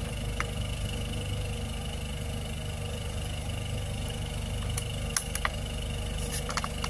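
A car engine idling with a steady low hum, with a few light clicks as plastic food containers and dishes are handled.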